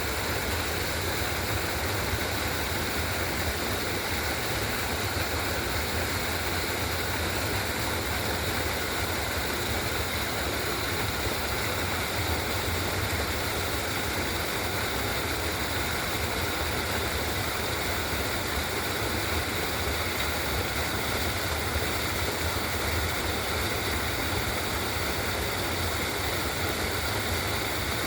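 Steady rush of flowing water, like a creek or small waterfall, with a low rumble underneath and no breaks.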